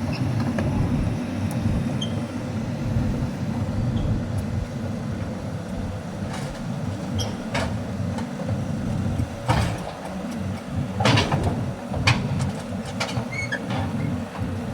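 Caterpillar 320D excavator's diesel engine running steadily under load, with several sharp knocks in the second half as the machine works.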